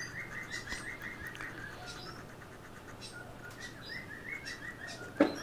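A bird chirping steadily in the background, a rapid run of short, slightly falling notes with brief pauses. A short thump comes near the end.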